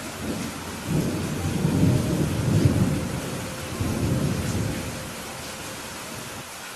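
Steady rain with a rumble of thunder that swells about a second in, peaks, and dies away after about five seconds.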